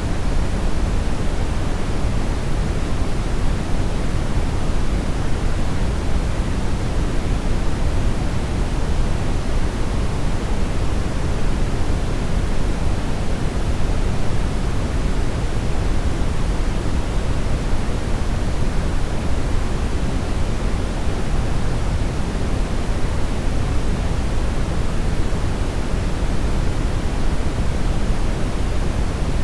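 Steady brown noise: an even, unchanging rushing hiss weighted toward the bass, with no tones or events.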